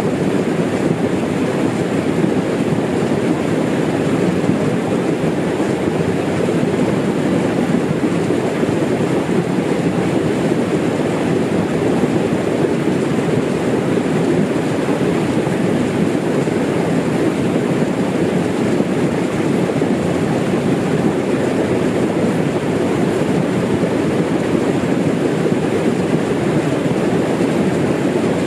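Small waterfall's water rushing, a loud, steady noise.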